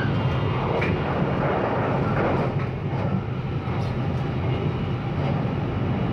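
Steady running noise of the JR Kyushu Kamome limited express electric train heard from inside the carriage: a low hum with wheel-on-rail noise and a few faint ticks.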